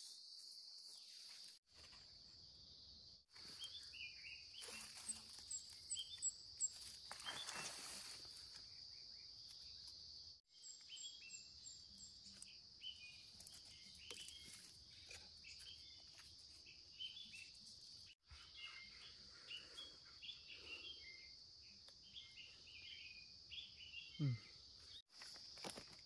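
Faint forest ambience: a steady high insect drone with a few short bird chirps and scattered small clicks and rustles, broken by several abrupt cuts.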